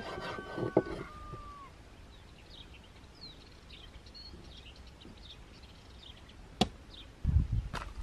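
Birds chirping with quick high notes, after a short call near the start that slides down in pitch. Near the end comes a sharp click, then loud low thuds.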